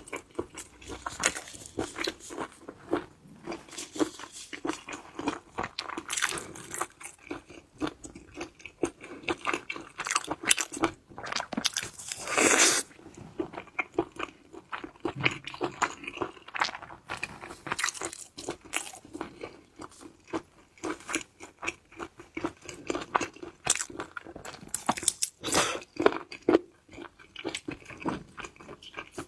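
Close-miked eating of crab: shell crunching and cracking, biting and wet chewing, with many irregular sharp cracks and one longer, louder crunch about twelve seconds in.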